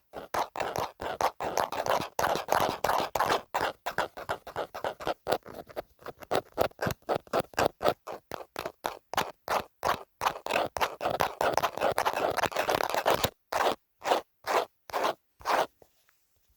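Scratching on a phone case in quick repeated strokes, about three or four a second, which thin out and stop shortly before the end.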